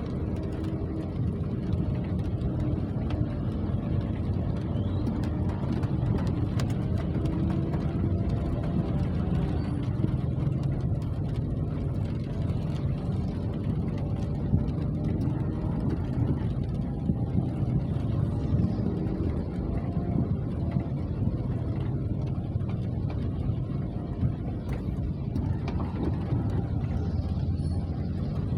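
Steady rain with an even low rumble and scattered faint ticks.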